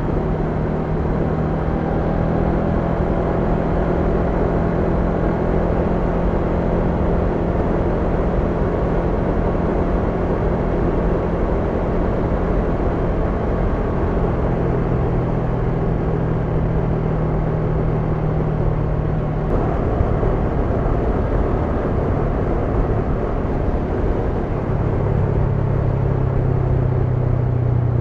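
Honda NX500's 471 cc parallel-twin engine running steadily under way, with wind and road noise. The engine note drops a little partway through and grows stronger near the end.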